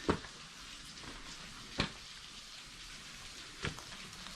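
Water dripping and trickling under an icicle-hung rock ledge: a steady hiss with three sharper splashes or taps, about two seconds apart.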